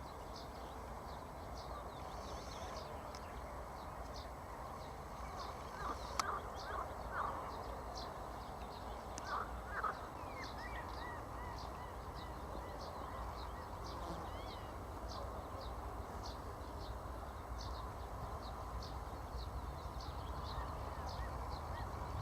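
Birds calling in the open: short, high chirps repeat every half-second or so throughout, with a few louder, lower, harsher calls about six to ten seconds in, over a steady background hiss.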